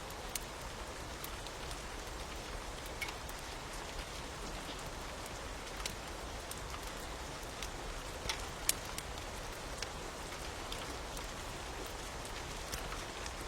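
Steady rain hiss with scattered sharp pops and crackles of a wood fire, one louder pop a little past the middle.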